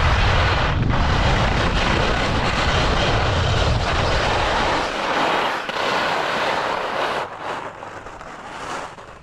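Ski edges scraping and hissing over hard, icy snow while side-slipping, with wind rumbling on the microphone. The rumble stops about five seconds in, and the scraping fades away near the end.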